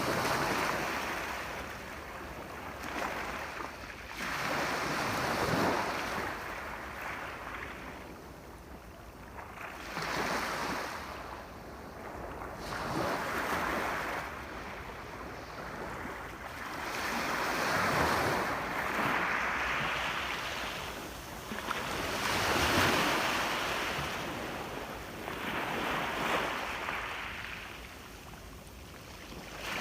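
Sea waves breaking and washing ashore, rising and falling in uneven surges every few seconds.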